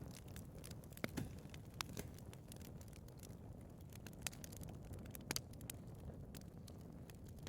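Wood fire burning in a fireplace: a low steady rumble of flames with irregular crackles and pops, a few sharper pops standing out about a second, two seconds, four seconds and five seconds in.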